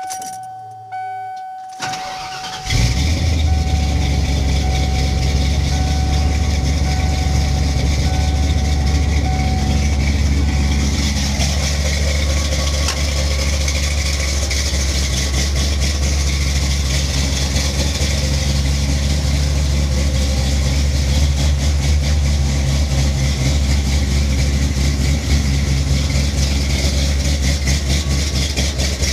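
First-generation Ford F-150 SVT Lightning 5.8-litre V8 cranking briefly and catching about two and a half seconds in, then idling steadily through a new aftermarket exhaust. The engine is running on a mass-air conversion with a Mustang A9L engine computer.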